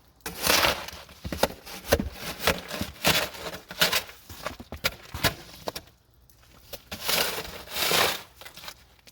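Snow shovel scraping and crunching through snow in a run of quick, irregular strokes, then two longer scrapes near the end.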